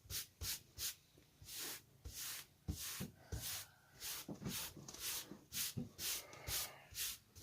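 Short rubbing strokes on paper, a few a second, from drawing or erasing by hand.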